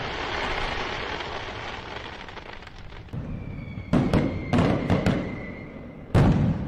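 Fireworks: a dense crackling fizz, then a steady high whistle and a string of sharp bangs in quick succession, ending with a louder bang near the end.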